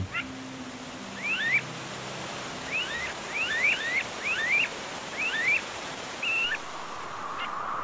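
A bird giving a run of short, rising chirps, about a dozen over several seconds, over the steady rush of a fast-flowing river. A faint steady high tone comes in near the end.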